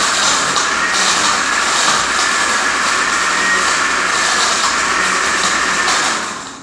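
Countertop blender running at full speed, blending tequila and drink mix, loud and steady with a faint high whine; it is switched off about six seconds in and winds down.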